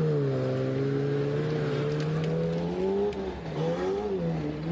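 A car engine running, its pitch falling at first, then holding steady, with a few small rises and dips near the end.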